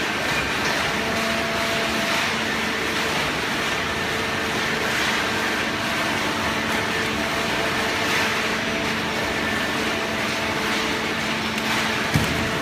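Automatic hydraulic baling press running: a steady machine hum with a few constant tones, and a short knock near the end.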